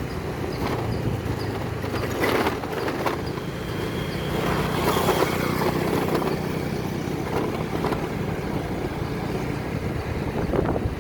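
An engine running steadily, with wind noise and a few scattered knocks.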